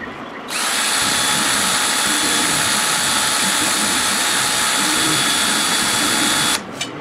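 DeWalt cordless drill spinning an arrow shaft chucked in it while the shaft's far end is ground square on an arrow-facing tool. It is a steady whir with a high whine that starts about half a second in and cuts off shortly before the end. This is the facing pass that grinds away the last of the silver marker so the end is square all the way around.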